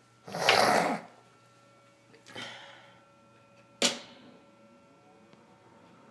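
Panasonic ceiling exhaust fan running steadily with its grill off, a faint even hum. Over it a loud rustling burst comes about half a second in, a softer one about two seconds in, and a single sharp knock near four seconds in.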